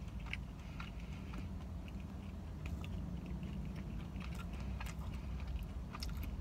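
Close-up chewing of a bacon and egg sandwich on a flaky, buttery croissant bun, heard as scattered, irregular soft clicks and smacks from the mouth over a low steady hum.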